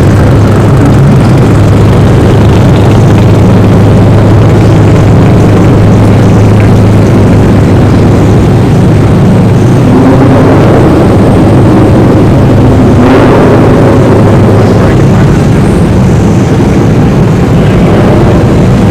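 Turbocharged Mazda Miata engine running steadily at low revs, very loud and close, with a constant low drone.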